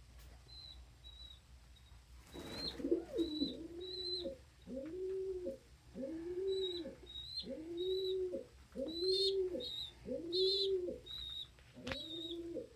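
Pigeon cooing over and over, about one arching coo a second, starting a couple of seconds in, with short high chirps from other birds over it.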